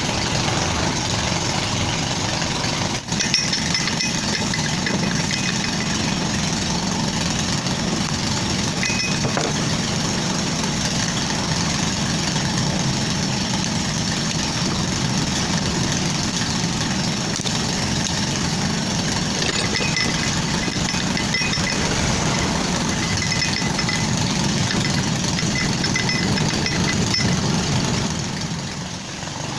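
An engine running steadily at idle, with a brief click about three seconds in.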